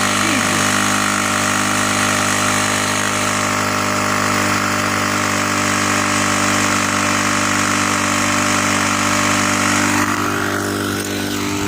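Small go-kart engine running steadily, being deliberately run until it seizes; it eases off slightly near the end.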